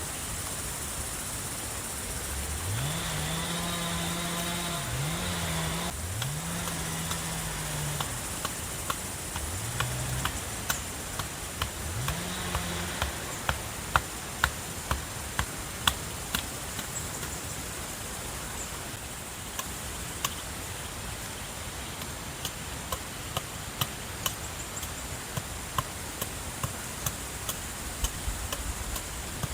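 An engine revs up several times, each time rising quickly in pitch and then holding, as a motor vehicle accelerates through gears. From the middle on come scattered sharp clicks and knocks.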